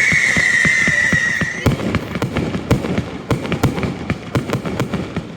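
Fireworks: a loud high whistle, falling slightly in pitch, over a rapid run of dull thuds, cuts off about a second and a half in. A fast, irregular crackle of sharp bangs follows.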